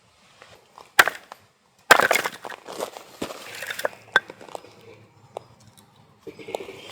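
Firewood being split or broken: one sharp knock, then wood cracking and splintering for about a second and a half, followed by a few lighter clicks.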